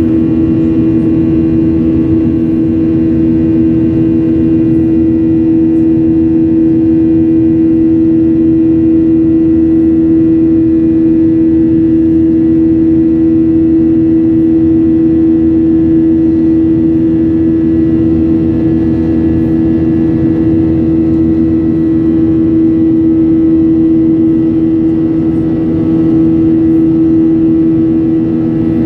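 Jet airliner engines running with a steady drone, a strong constant hum over even rushing noise, with no change in pitch.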